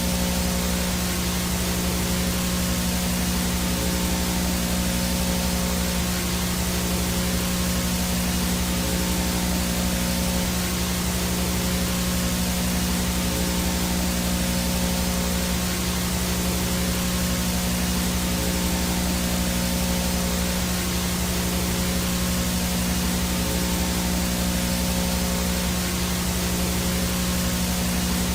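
Analog VHS static with no signal: a steady hiss of white noise over a constant low hum, with a few fainter steady tones above it.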